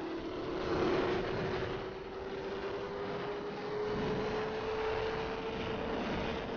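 Sport motorcycle engine running at road speed, its pitch slowly rising, under heavy wind noise on the microphone.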